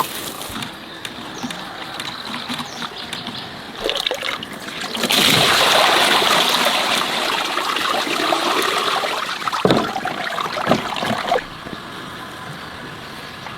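Water trickling and splashing, growing much louder about five seconds in and stopping abruptly a couple of seconds before the end.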